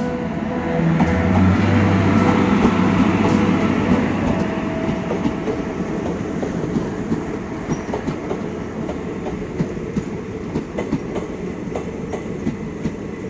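Indian Railways passenger train passing close by, hauled by an electric locomotive. A heavy rumble swells over the first few seconds as the locomotive goes past. The coaches then roll by with irregular clicks of wheels over the rail joints.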